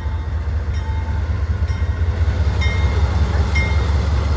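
Shunting train of a locomotive and gravel cars rumbling steadily along the track, with a couple of brief thin high squeals partway through.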